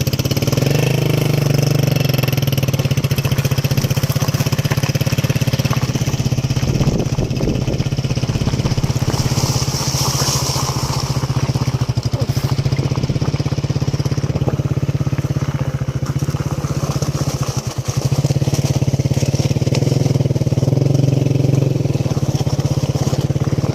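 Honda CG125 motorcycle's single-cylinder four-stroke engine running steadily under way, with a brief dip in level about three-quarters of the way through.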